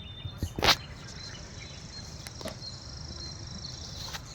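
Insects chirring steadily in forest, a thin high buzz, with one sharp knock just under a second in and a few fainter clicks near the end.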